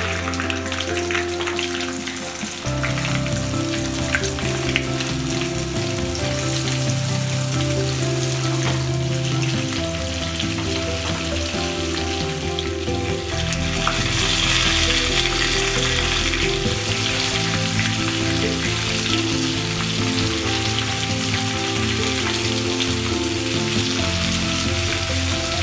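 Skewered prawns frying in hot coconut oil with curry leaves: a steady sizzle throughout. Background music with long held notes plays underneath.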